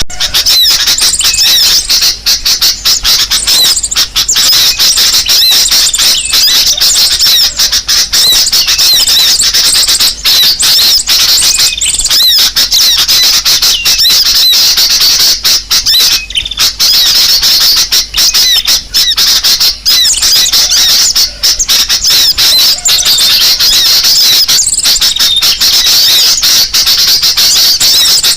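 Bird-lure recording of small songbird calls, the sogok ontong spiderhunter's call mixed with sooty-headed bulbul, played as a loud, continuous stream of rapid, high, shrill chirps and squeaky notes, used to call small birds in.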